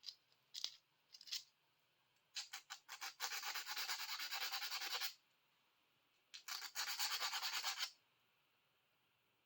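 Sandpaper rubbed by hand over a steel tool to take off surface rust: two spells of quick back-and-forth strokes, the first starting about two seconds in and the second a little past six seconds, with a few light knocks before them.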